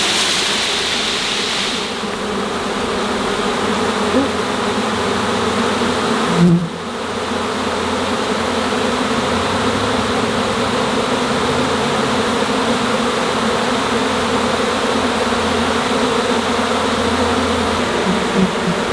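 Loud, steady buzzing of a honeybee swarm being scooped off a branch into a box, thousands of bees in the air at once. There is a brief dip and a soft knock about six and a half seconds in.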